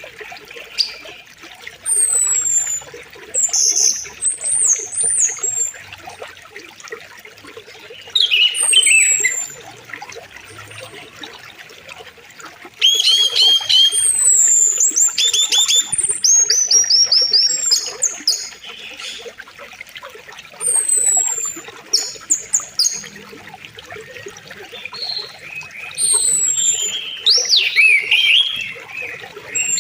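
Flowing river water with a steady rush, with several birds singing and calling over it. The calls are repeated high, falling whistles and quick runs of chirping notes, busiest about halfway through and again near the end.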